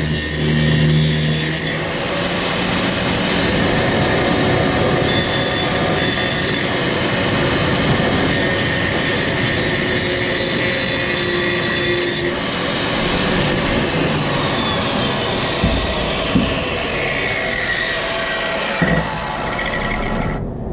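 Handheld power grinder grinding down the heads of the old hanger rivets on a steel truck frame, running steadily with a grinding rasp. A thin whine slides down in pitch over the last several seconds before the sound cuts off abruptly.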